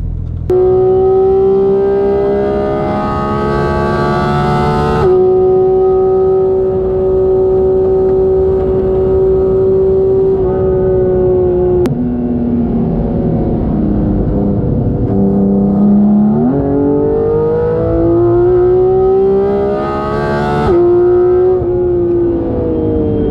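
Sports car engine heard from inside the cabin, pulling away under load and shifting up through the gears: the note holds or climbs, then drops sharply at each shift, about three times, with one long steady climb in pitch near the end.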